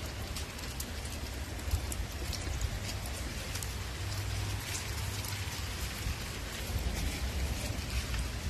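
Steady rain falling, with individual drops ticking through it and a low rumble underneath.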